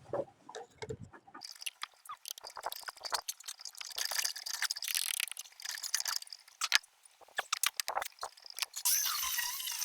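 Pry bar working at a freshly cut wall opening: irregular clicks, scrapes and small knocks of metal on metal and masonry, turning into a steadier hiss near the end.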